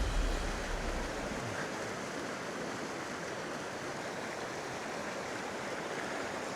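Steady rushing of a stream's running water, with the tail of music fading out in the first second or so.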